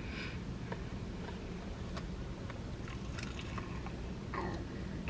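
A person biting into and chewing a piece of breaded fried chicken, soft mouth sounds with small clicks, and a brief throat noise near the end.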